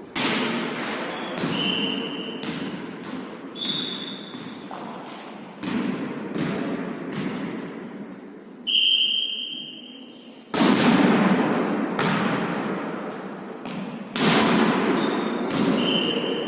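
A volleyball being struck and bouncing on a hard court floor during a volley tennis rally: sharp thuds every second or two that ring on in a large, echoing hall, with short high squeaks between them.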